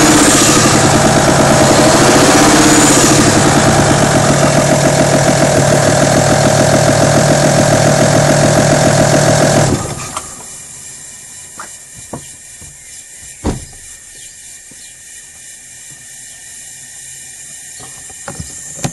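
Audi A6 2.5 TDI V6 diesel engine running with a rhythmic clatter, which the owner puts down to the camshaft, hydraulic lifters and rocker arms. It cuts off suddenly a little under halfway as the engine is switched off, leaving a few faint clicks and a knock.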